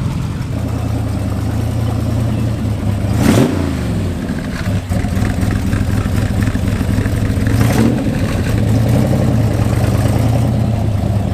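Car engines: one idling steadily close by, while a car drives past with a falling pitch about three seconds in and another passes near eight seconds.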